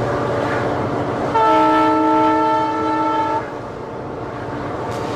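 Train running, with its locomotive horn sounding one long, steady blast of several notes together that starts about a second in and lasts about two seconds.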